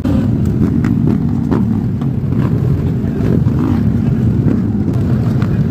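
Motorcycle under way: engine running with a steady, loud rumble of engine and wind noise on the rider's microphone.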